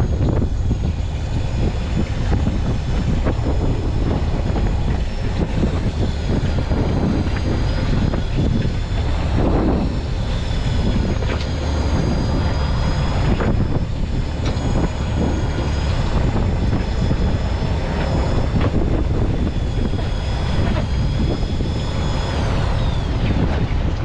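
Fishing boat's engine running steadily with wind and water noise. A thin, high, steady whine sits above it, then falls in pitch and stops near the end.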